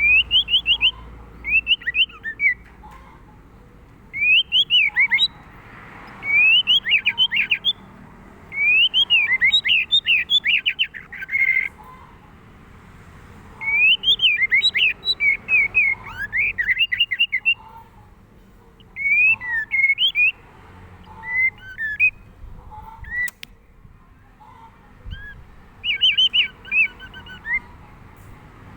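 White-rumped shama (murai batu) singing: repeated phrases of quick whistled notes, each phrase lasting a second or two, with short pauses between.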